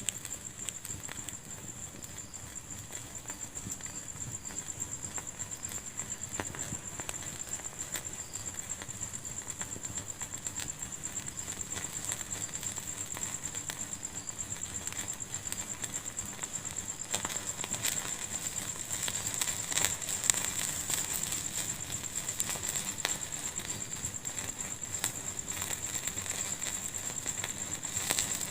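Wood fire crackling in a fireplace, with irregular small pops and snaps that come more often in the second half. A steady high hiss runs underneath.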